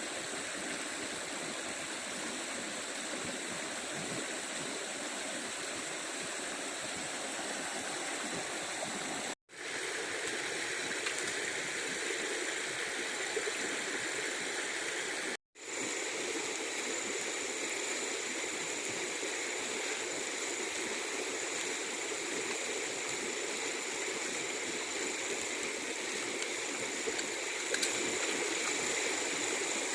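Stream water running steadily, with a thin, steady high tone above it. The sound drops out twice, very briefly, about a third and about half of the way through.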